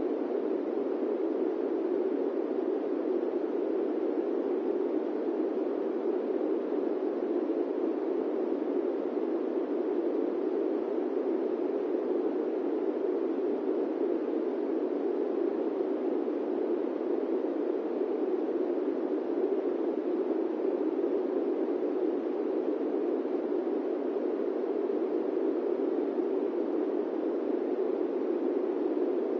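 Steady airplane-cabin white noise: an even, unchanging rush centred in the low-mids, with little deep rumble beneath it.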